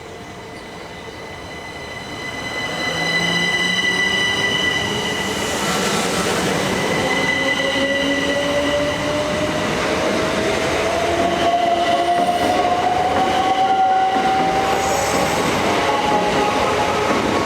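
Electric passenger train running through the station, its motors giving a whine that rises slowly in pitch as it accelerates, with steady high-pitched tones over the running noise.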